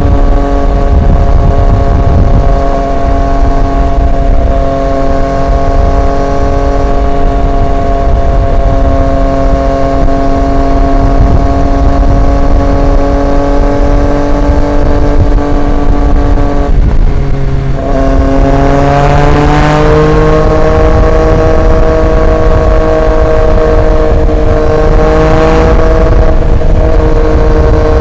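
Triumph Street Triple 765 RX's inline-three engine running through an SC Project S1 exhaust, holding steady revs while cruising. About seventeen seconds in the revs dip briefly as the throttle eases off, then climb smoothly as it accelerates and settle at a higher pitch.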